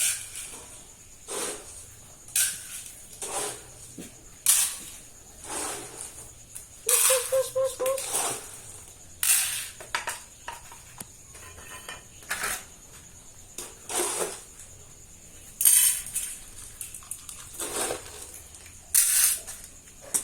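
Feeding bowls and a spoon clinking and clattering at irregular intervals while cats are being given their dinner, with a short pitched sound about seven seconds in.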